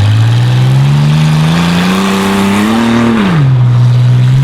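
Chevy S10 Blazer tough truck's engine revving hard under acceleration. It climbs steadily in pitch for about three seconds, drops sharply as the throttle comes off, then holds at a lower, steady note near the end.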